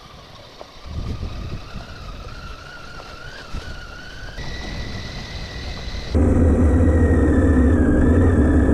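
Motorcycle engine running while riding, a steady whine over road noise. About six seconds in the sound jumps much louder, with a deep throb.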